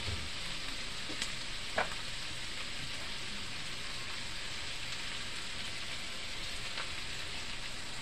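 Vegetables sizzling steadily as they sauté in a nonstick wok, with a few light clicks of a spatula against the pan, the sharpest about two seconds in.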